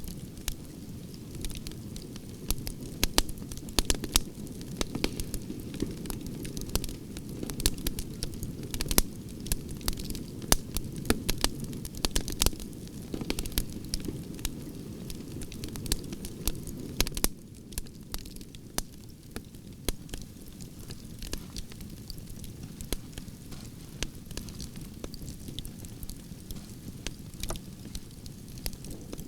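Campfire of burning branches crackling: frequent sharp pops and snaps over a steady low rush of flames. A little past halfway the low rush drops slightly and the pops come a bit less often.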